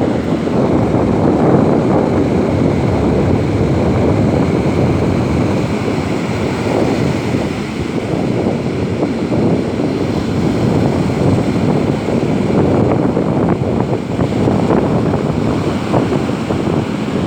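Wind blowing on the microphone over the wash of ocean surf: a loud, steady rushing rumble with no distinct events.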